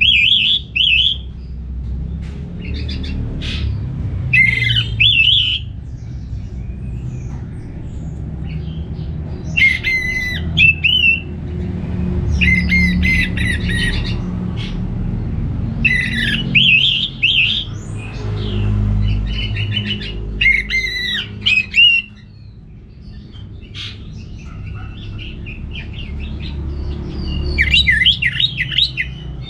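Orange-headed thrush singing short, varied, loud phrases every few seconds, over a steady low rumble.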